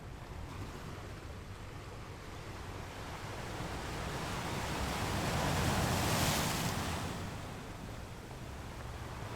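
Ocean surf: a single wave builds, breaks with a rush of hiss about six seconds in, and washes back, over a steady low rumble of the sea.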